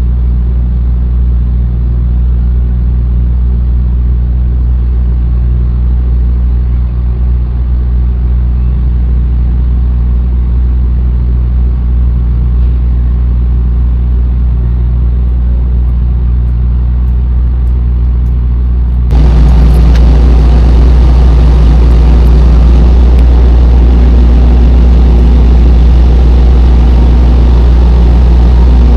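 Tractor-trailer's diesel engine idling steadily with a low, even rumble. About two-thirds of the way through, it suddenly becomes louder and fuller.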